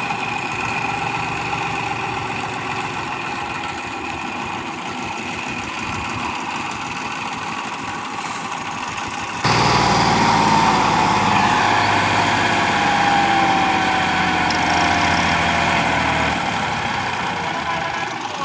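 TAFE 585 DI tractor's diesel engine running steadily. About halfway through it abruptly gets louder, and a tone slowly falls in pitch over the next several seconds.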